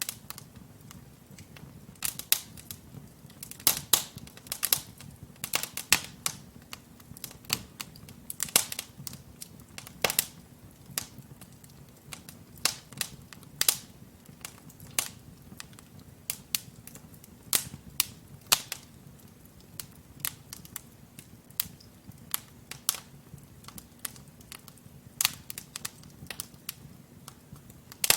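Wood fire crackling in a fireplace: irregular sharp pops and cracks from the burning logs, several a second at times, over a low steady hiss of flame.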